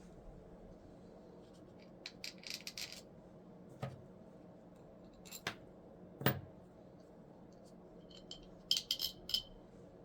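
Small parts and hand tools clicking and clinking as a snowmobile fuel pump is worked on at a bench. The clicks are scattered, the sharpest about six seconds in, with a quick run of light clinks near the end, over a faint steady hum.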